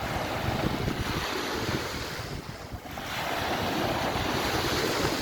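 Sea waves washing onto the beach, with wind buffeting the microphone. The rushing noise swells, dips briefly about two and a half seconds in, then builds again.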